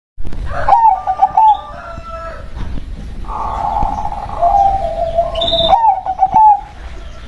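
Zebra dove (perkutut) cooing: a quick run of short coo notes about a second in, a long drawn-out coo in the middle, and another quick run of notes near the end.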